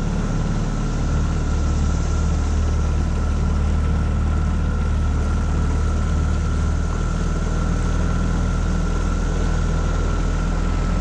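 Tohatsu 9.8 four-stroke outboard motor running steadily, its low drone joined by a thin, steady whine. The drone grows fuller about a second in and eases slightly about seven seconds in.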